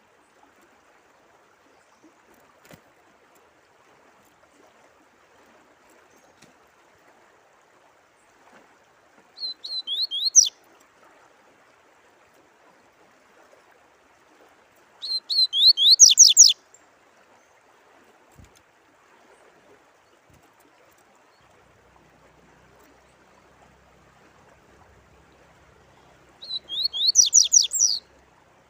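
A songbird sings three short phrases, each a quick run of sweeping whistled notes lasting a second or so, spaced several seconds apart, over a faint, steady sound of running water.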